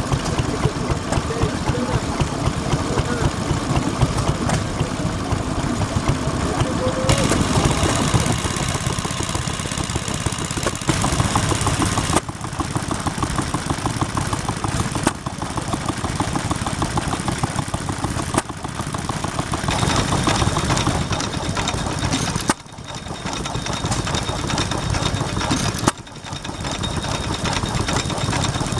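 Vintage stationary engines running steadily at low speed with a regular firing beat. The sound changes abruptly several times, switching from one engine to another.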